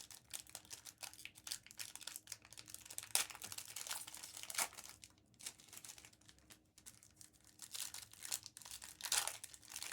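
Foil trading-card pack wrappers crinkling and tearing as Topps Chrome packs are torn open by hand, with irregular crackles and a few sharper snaps.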